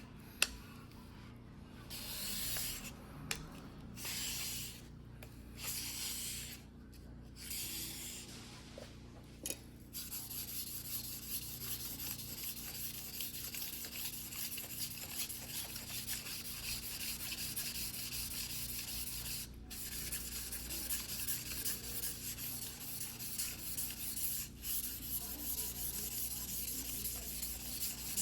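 Steel blade of a single-bevel fuguhiki sashimi knife being hand-sharpened on a wet whetstone: for about ten seconds, separate rubbing strokes each about a second long, then a steady run of quick back-and-forth strokes.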